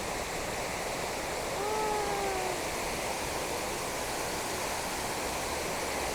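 Large outdoor fountain jetting at full height: a steady, loud rush of water. A brief high, voice-like call sounds about two seconds in.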